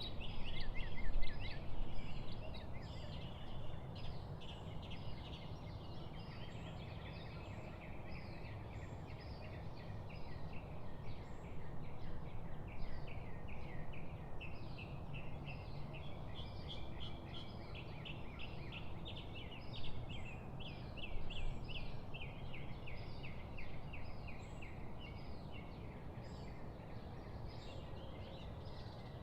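Several wild birds singing at once, with quick repeated chirps and trills overlapping throughout, over a steady low rushing background of moving water or wind. A short low rumble stands out about a second in.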